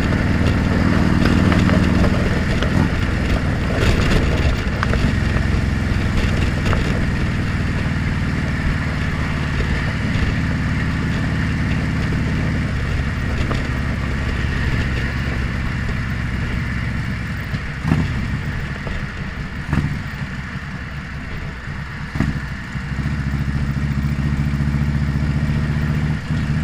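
Motorcycle engine running, heard from a helmet-mounted camera. The engine note drops and quietens for several seconds past the middle, with a few clicks, then picks up again near the end.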